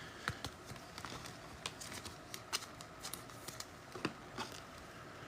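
Trading cards being handled and flipped through: faint, irregular soft clicks and taps a few times a second.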